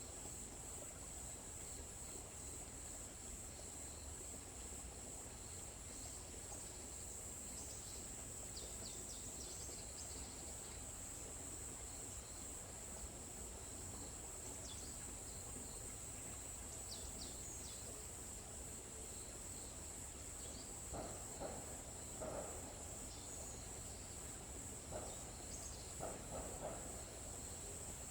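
Forest ambience: a steady, high-pitched insect drone runs throughout, with faint short bird chirps scattered through it. Near the end, a few louder, lower-pitched calls come in.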